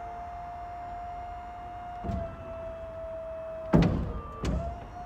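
Steady mechanical whine from the Scania P270 box truck, broken by three clunks, the loudest about four seconds in; the whine sags slightly in pitch while the clunks come and recovers after them.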